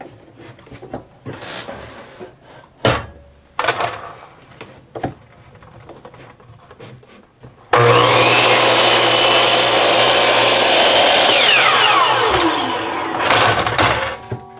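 Wooden boards knocked and shifted about. About halfway through, an electric miter saw starts suddenly and cuts through a cedar fence picket for about four seconds, then winds down with a falling whine.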